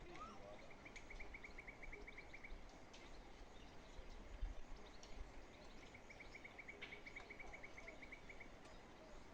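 Faint bird trill: a high run of quick, even notes, heard twice, each about two seconds long, over quiet open-air background hiss.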